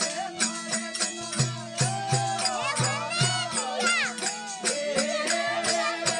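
Rajasthani devotional folk music (a Marwari bhajan): a steady drone under a regular beat of rattling hand percussion, about two to three strokes a second, with a gliding melody line above.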